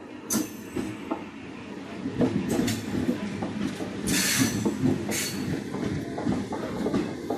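Train running on the track, a low rumble that builds about two seconds in, with several brief, sharp high-pitched noises over it.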